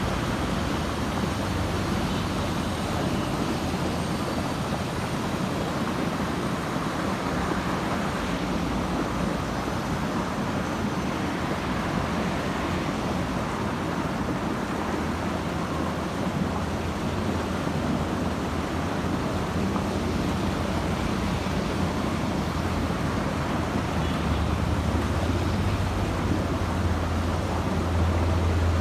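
Road traffic with buses and trucks: a steady rumble of engines and tyres. A heavy vehicle's low engine drone grows louder toward the end.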